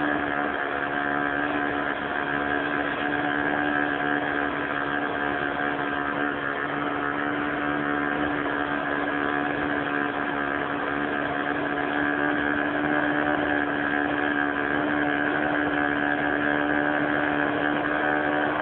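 O.S. 46 FX two-stroke glow engine of an RC airplane running at a steady pitch, a continuous buzzing drone.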